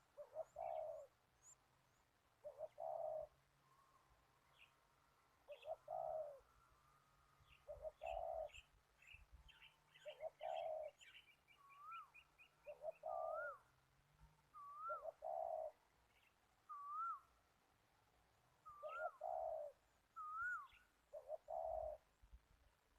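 A dove cooing over and over, a short coo roughly every two seconds. Other birds chirp in the background, and a short rising-and-falling whistle repeats several times in the middle and later part.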